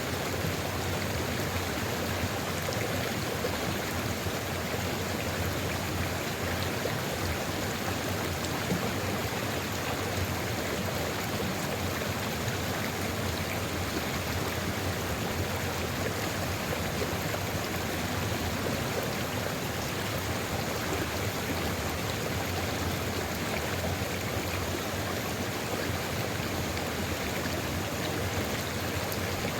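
Sulfur river running steadily: an even, unbroken rush of flowing water.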